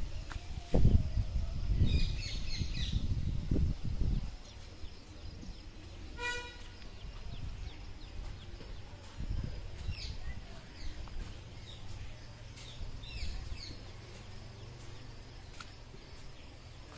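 Birds chirping outdoors in several short bursts, with one short clear call in the middle, over a steady rural background. Low buffeting on the microphone fills the first few seconds, then dies away.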